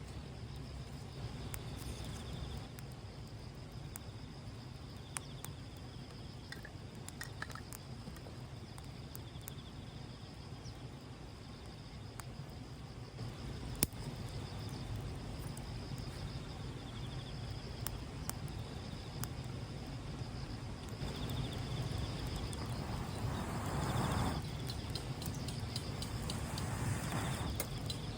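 Insects, such as crickets, chirping in a steady high trill, with scattered small clicks and two stretches of rushing noise near the end.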